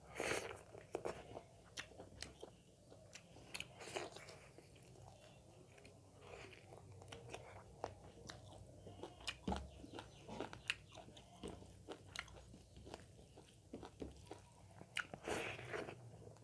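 Close-up eating sounds of a person chewing mouthfuls of rice and pork, with many small wet clicks and a few louder mouthfuls: just after the start, around four seconds, around nine and a half seconds and near the end.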